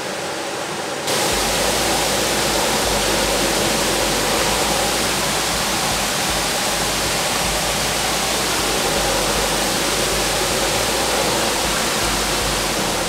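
Waterfall: the steady rush of falling water, which suddenly becomes louder and fuller about a second in.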